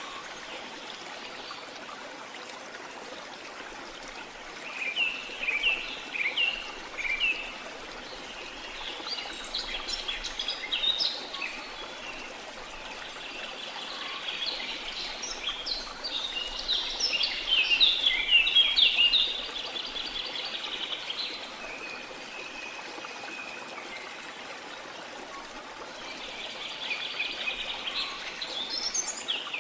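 Steady rush of a waterfall, with tropical forest birds chirping and calling over it in several bouts, busiest around the middle.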